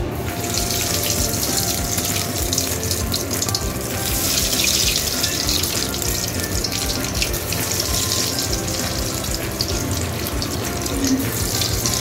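Breaded chicken cutlets sizzling and crackling in hot oil in a frying pan. The hiss starts suddenly as the first cutlet goes in and swells louder as more cutlets are added, about four seconds in and again near the end.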